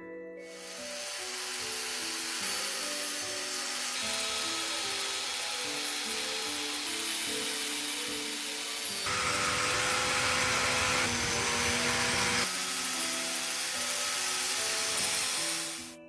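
Steady, noisy power-tool work on the piece being restored, such as sanding or abrading, running over background music. It grows louder and fuller for about three seconds in the middle.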